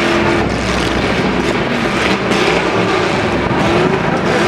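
Demolition derby trucks' engines running loud and revving, the pitch rising and falling several times, over a steady din of engine noise.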